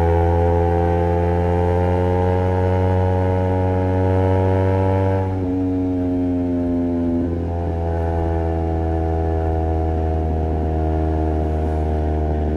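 Honda CBR250RR's parallel-twin engine through a Project 79 slip-on exhaust, riding under steady throttle. The engine note climbs slowly, drops at a gear change about five seconds in, dips briefly again about two seconds later, then climbs once more.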